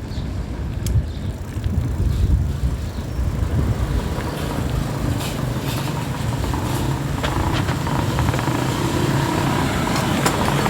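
Rumble and rattle of a bike ride on a phone microphone, with scattered clicks. A motor vehicle's engine grows louder in the second half.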